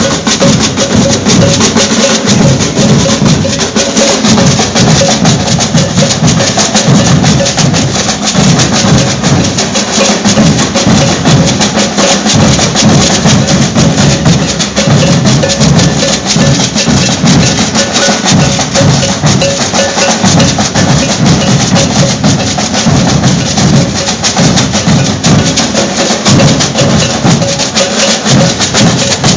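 Maracatu nação (baque virado) percussion ensemble playing: alfaia bass drums, snare drums and shakers keep up a loud, steady, driving rhythm without a break.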